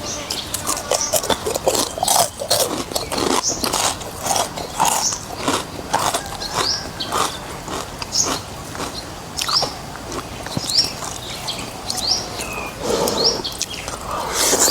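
Close-miked eating of noodles and beef in soup: chewing with many quick wet smacks and clicks. Short rising bird chirps come every second or so.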